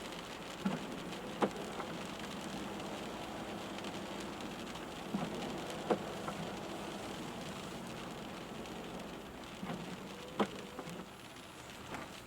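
Rain falling steadily on a moving car, an even hiss. Three times, about every four and a half seconds, a pair of short sharp knocks sounds through it.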